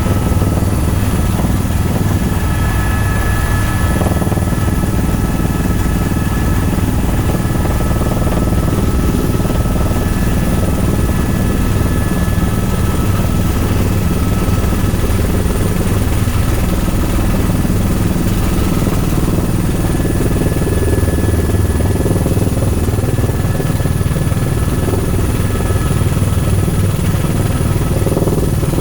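Tour helicopter running steadily: a dense low drone from the rotor and engine with a thin, steady high-pitched whine above it.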